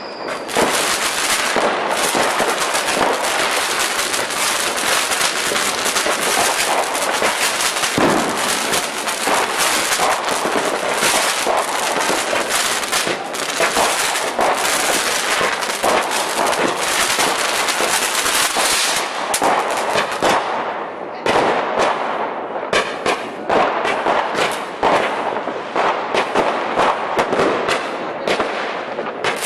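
Firecrackers going off in a long, dense crackling barrage of rapid bangs, thinning into more separate bangs about twenty seconds in.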